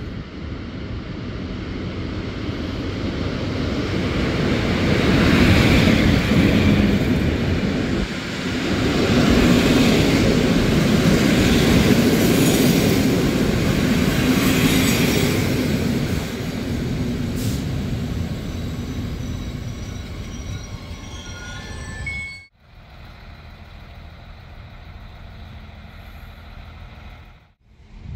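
Locomotive-hauled PKP Intercity passenger train pulling into the platform, its carriages rolling past with a heavy rumble of wheels on rail that builds, peaks and then eases as it slows. High squealing tones come in as it slows. The sound cuts off abruptly about three-quarters through and is followed by a quieter, steady rumble.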